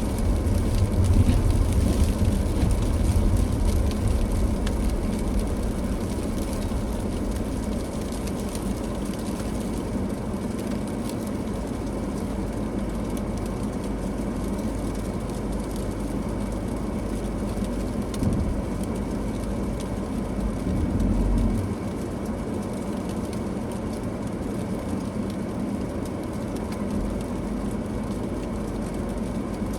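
Car driving on a snowy road in a snowstorm: steady road and tyre noise with a low rumble, louder for the first few seconds, a short knock about 18 seconds in and a brief louder swell a few seconds later.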